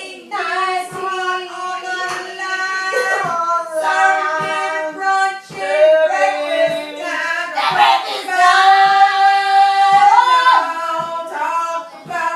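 A high voice singing a melody with long held notes, with a short knock or clap keeping time about once a second.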